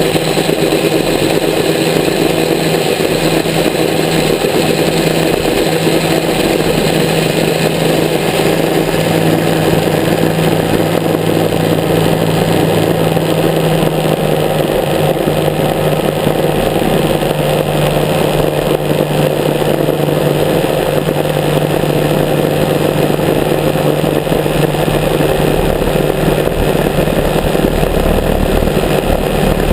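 Grumman G-44 Widgeon seaplane's twin piston engines running steadily at power, their tone shifting about halfway through.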